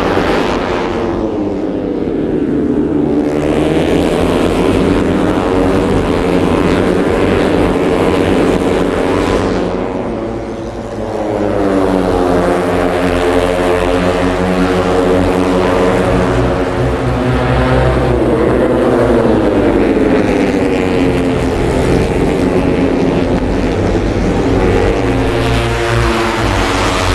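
MotoGP racing motorcycle engines at high revs, the pitch climbing and falling repeatedly as the bikes accelerate and shift, with a brief drop in level and pitch about ten seconds in.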